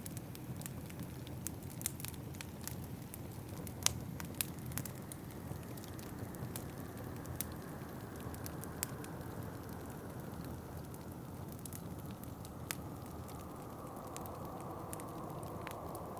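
Wood fire crackling in a fireplace, with sharp pops scattered through, the loudest about four seconds in, over a steady wind blowing outside that swells near the end.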